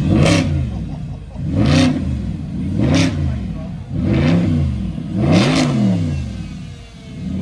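A high-performance car engine being revved in repeated blips, about five times. Each rise and fall in pitch lasts about a second.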